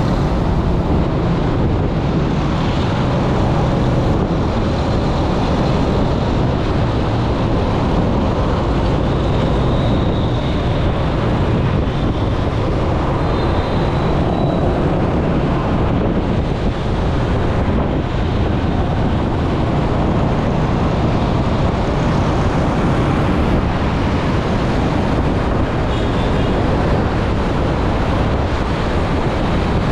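Steady rushing noise of a moving vehicle, with wind buffeting the microphone.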